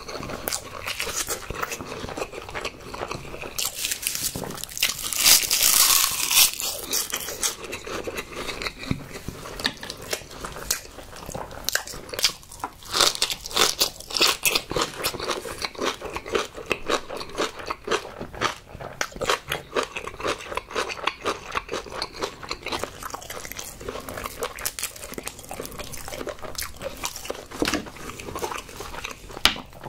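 A person eating soy-marinated crab bibimbap right up against the microphone: many wet mouth clicks, bites and crunches. There is a louder, hissier burst of crunching about five seconds in.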